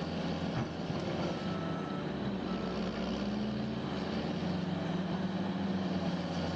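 Caterpillar bulldozer's diesel engine running steadily under load with a low pulsing note, its pitch rising a little twice as it works to drive the tracks out of deep mud.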